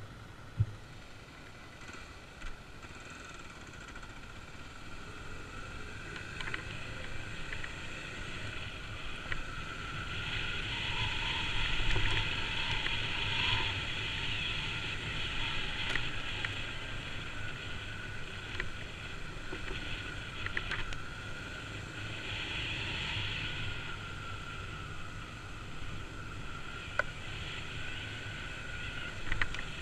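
Kawasaki KLX250 dirt bike's single-cylinder engine running steadily, growing louder around ten seconds in and then easing off.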